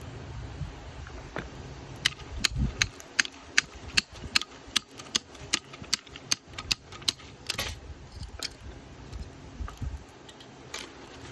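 A quick run of sharp, evenly spaced clicks or taps, about two to three a second for some five seconds, starting about two seconds in, then a few scattered ones.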